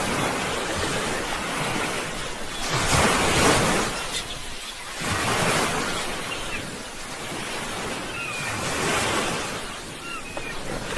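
Sea waves breaking and washing on the shore. The surf rises and falls, with the biggest wash about three seconds in and smaller ones after.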